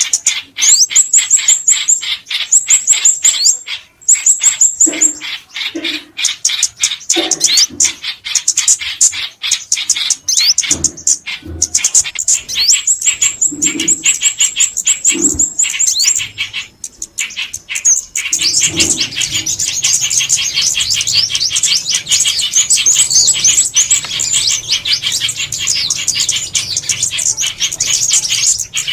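Recorded songbird calls: dense, rapid high chirps and trills. Through the first half they come in short runs broken by brief lower notes; after about eighteen seconds they become a continuous, layered chorus.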